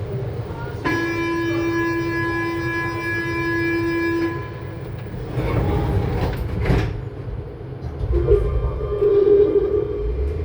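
Toulouse VAL 208 metro departing: the door-closing warning tone sounds steadily for about three and a half seconds. The doors shut with a clatter about two seconds later, and the traction motors start to whine, rising in pitch as the train pulls away. The uploader notes that this car's motor has a slight fault.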